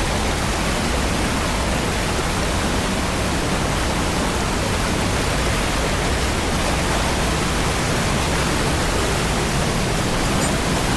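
Steady rushing of flowing water in a canyon, an even, unbroken roar.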